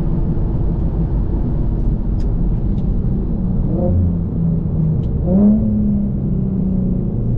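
Infiniti G37 coupe's 3.7-litre V6 droning through a full titanium Tomei exhaust while cruising, with the revs rising twice, about four and five seconds in.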